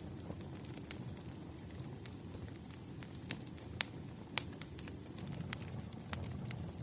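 Wood fire crackling: a steady low rumble of burning logs with sharp pops at irregular moments, the loudest two a little under four seconds in and about half a second later.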